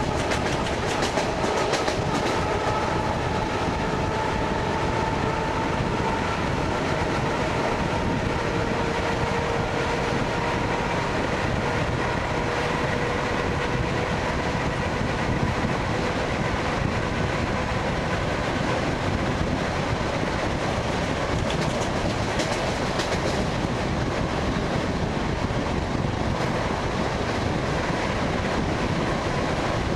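ED9MK electric multiple unit heard from inside a carriage: wheels clicking over rail joints over a steady running rumble, with a faint motor whine that slowly shifts in pitch.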